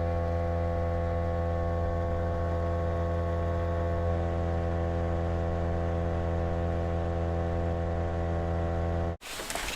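Boat's outboard motor idling, a very steady low engine note that cuts off abruptly about nine seconds in.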